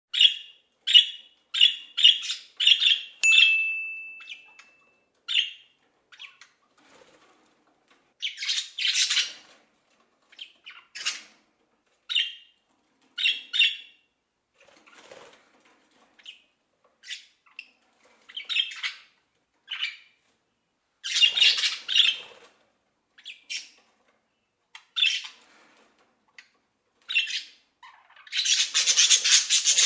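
Parrots squawking: a quick run of about six harsh calls at the start, one held whistled note a few seconds in, then scattered squawks and shorter calls that crowd together into a dense burst near the end.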